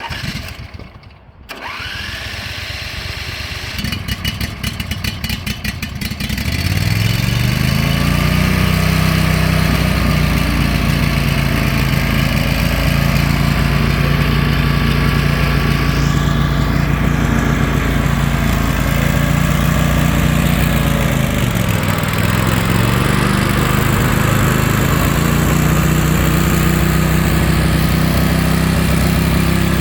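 Sabre 2046 lawn tractor engine cranked by the electric starter for about two seconds, catching and running up to a steady speed. About two-thirds of the way through, the engine speed dips briefly and comes back up.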